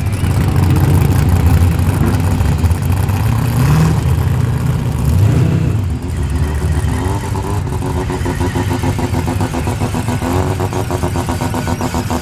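Drag car's engine running hard, its pitch rising twice in the first six seconds. After that it settles into a steadier, pulsing engine note.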